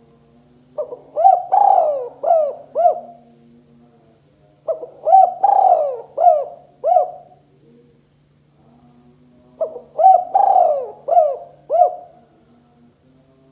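Spotted dove cooing: three phrases of about five arched notes each, a few seconds apart, over a faint steady hum.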